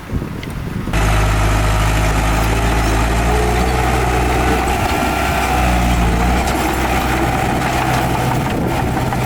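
Wind buffeting the microphone, then a heavy diesel engine of an earthmoving machine cuts in suddenly about a second in and runs steadily at a low, even pitch.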